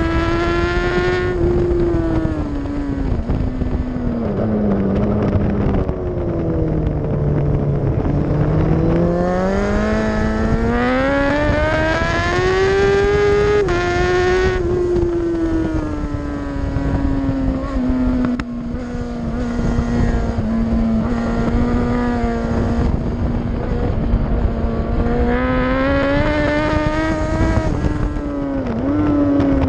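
Racing superbike engine running hard under the rider, with wind rushing past. The engine note drops as the bike slows around 7 seconds in, climbs back up to high revs a few seconds later, holds fairly steady for a long stretch, then rises again near the end.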